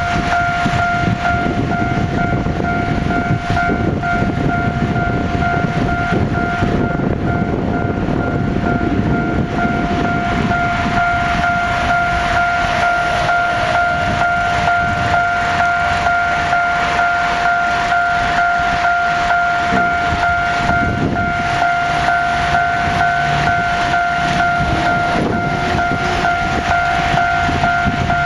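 Freight train running past, its wagons rumbling and clattering steadily on the rails. Over it sounds a continuous warning tone held at one pitch.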